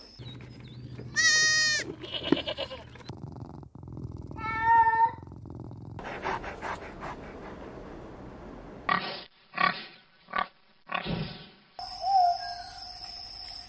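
Animal calls: a red fox's high yelping whine about a second in and a shorter yelp near five seconds, then a dog barking four times between about nine and eleven seconds.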